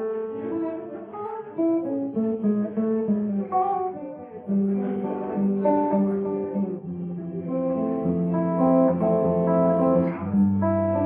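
Acoustic guitar playing an instrumental passage of plucked and strummed chords, growing fuller and louder near the end.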